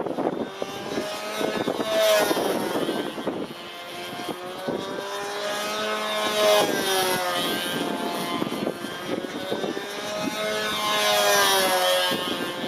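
Small model airplane engine of a control-line plane running steadily, its pitch rising and falling about every four and a half seconds as the plane circles past on its lines. Strong wind gusts buffet the microphone underneath.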